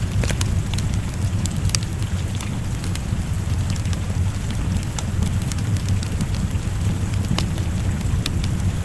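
Wood fire crackling with scattered sharp pops, over a steady low rumble and the hiss of rain.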